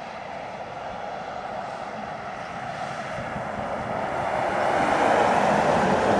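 Heavy lorry climbing a hill under load, its engine and tyres growing steadily louder as it approaches, loudest near the end.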